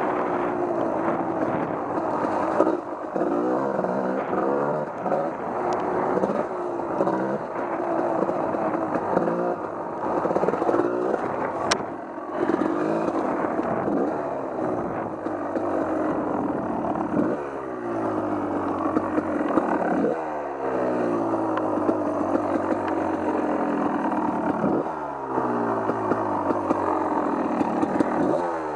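Off-road vehicle engine running under throttle while riding, its revs rising and falling. Several times in the second half the revs drop off sharply as the throttle is let go.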